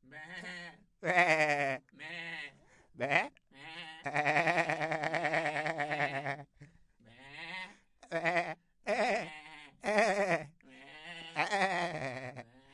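Goats bleating in a string of about a dozen quavering calls, one long drawn-out bleat about four seconds in.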